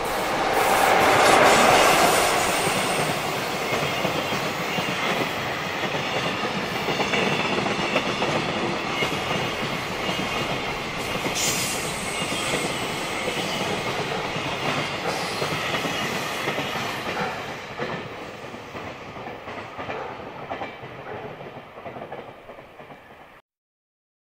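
JR Freight EF66 electric locomotive passing close by at the head of a container train, loudest about a second or two in, followed by the long string of container flatcars rolling past with the clickety-clack of wheels over the rail joints. The noise fades near the end and then cuts off abruptly.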